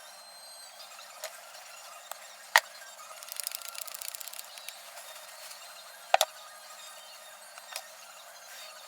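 Sharp clicks and clinks of hand tools and metal parts during a motorcycle brake rebuild, the loudest about two and a half seconds in and a double one about six seconds in, with a quick run of rapid, evenly spaced clicks in between.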